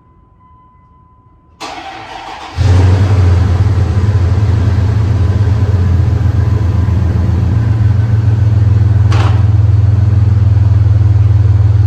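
An old pickup truck's engine cranking on the starter for about a second, then catching and running loudly and steadily. It starts after sitting in the shop.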